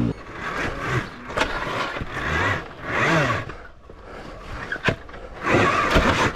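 Dirt bike engine revving in short swells, with a couple of sharp knocks and a burst of clatter near the end.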